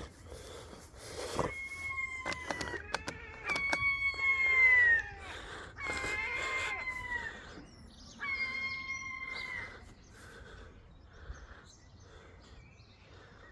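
Rooster crowing about four times, each crow a long held note that drops away at the end.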